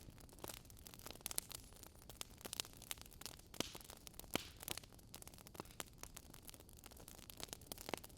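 Burning wood logs crackling: irregular sharp pops and snaps over a faint hiss, with a short louder hiss about three and a half seconds in.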